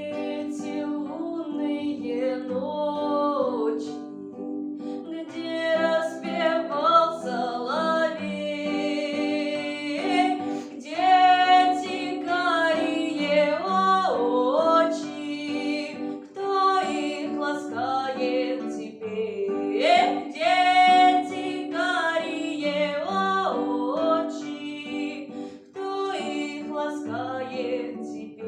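A woman singing a lyrical romance with vibrato over steady instrumental accompaniment.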